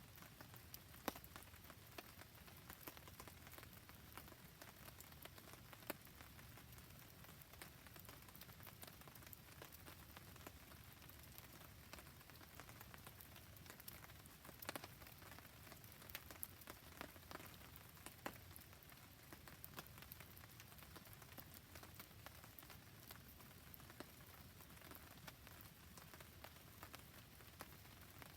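Rain falling steadily with a soft patter of drops, under a campfire's faint crackling: fine ticks throughout and a couple of sharper pops, one about a second in and one about six seconds in.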